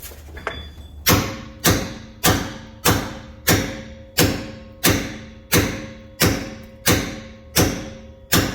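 About a dozen steady, evenly spaced hammer blows on metal, about one and a half a second, each leaving a short metallic ring. The blows are meant to drive out a bolt jammed in the rear shock of a 2012 Nissan Sentra, and the bolt stays stuck.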